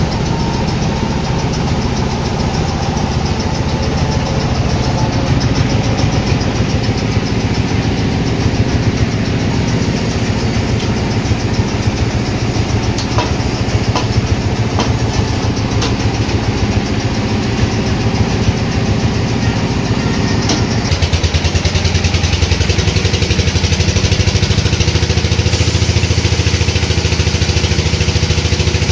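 Sawmill's engine running steadily. About 21 seconds in its note changes and it gets louder, with more hiss.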